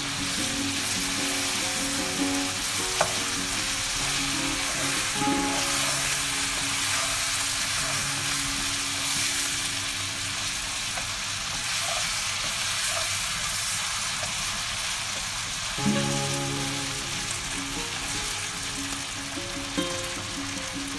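Food sizzling steadily in hot oil in a pan, with a few sharp clinks of a spoon being stirred against it.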